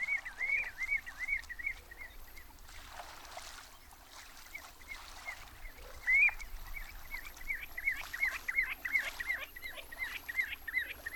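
A shorebird calling a rapid series of shrill piping notes, about four or five a second. It calls for a couple of seconds, pauses, then starts again about halfway through and keeps on.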